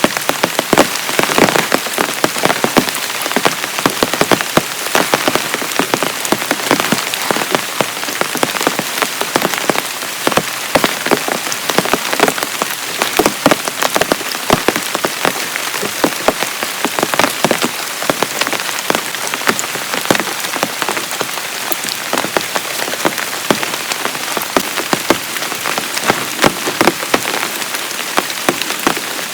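Heavy rain falling steadily, with a dense stream of individual drops striking a surface close by.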